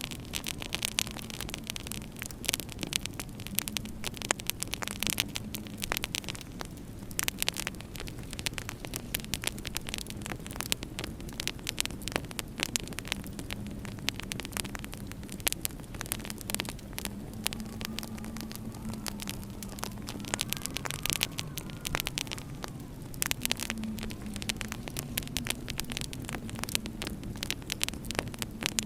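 Wood fire crackling in a fireplace, with frequent sharp pops and snaps, over a low wavering howl of winter wind.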